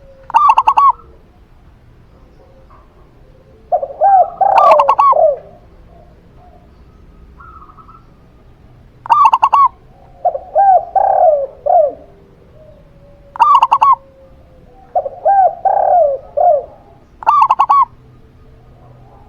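Zebra dove (perkutut) and spotted dove (tekukur) cooing in turn. Short higher coos alternate every few seconds with longer, lower multi-note coo phrases.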